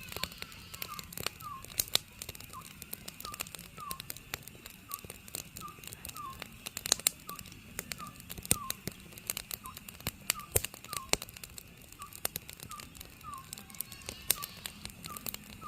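Oriental scops owl calling: short whistled hoots repeated steadily, about two a second, over firewood crackling and popping with frequent sharp snaps.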